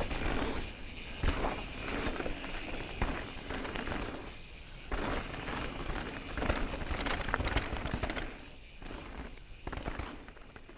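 Kona Process 153 CR/DL 29 mountain bike riding down a dirt trail: a steady rush of tyres over dirt with scattered clicks and knocks from the bike, growing quieter and fading out near the end.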